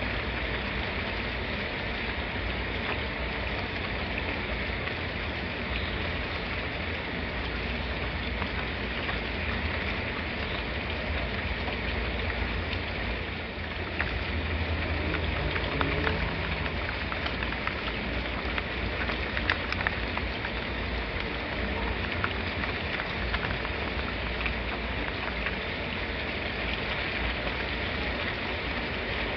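Steady rain falling, with scattered drop ticks over a constant low rumble; it grows a little louder about halfway through.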